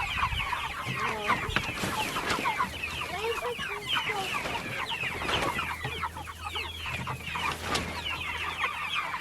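Flock of chickens peeping and clucking, many short, overlapping calls.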